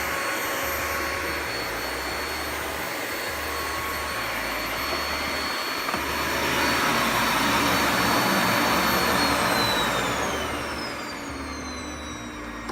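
Midea VSB 40 A 14D-B vacuum cleaner running, a steady rushing noise with a high motor whine, louder for a few seconds midway. Near the end the motor winds down, its whine falling in pitch as the noise fades.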